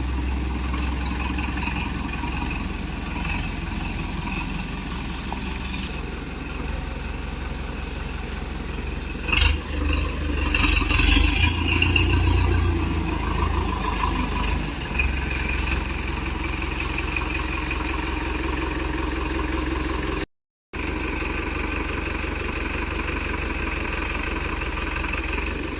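Powertrac Euro 55 tractor's diesel engine running steadily, with a louder stretch of noise about ten seconds in.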